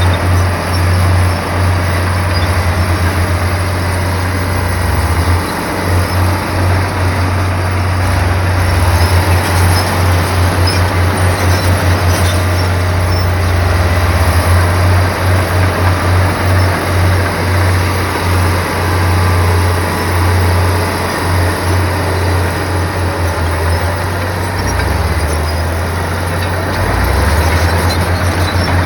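Bulldozer's diesel engine running with a steady low drone that pulses throughout.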